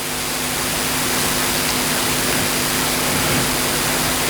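A steady rushing noise that swells over the first second or so and then holds, with a faint low hum under it.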